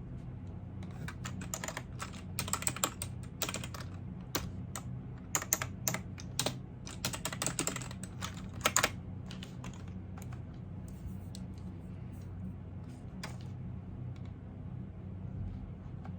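Typing on a computer keyboard: quick runs of keystrokes for the first nine seconds or so, then a few scattered keystrokes, then stopping. A low steady hum lies underneath.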